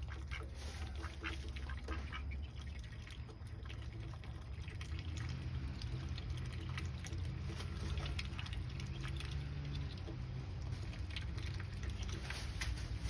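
Pet ducks quacking, over a steady low hum and scattered small clicks.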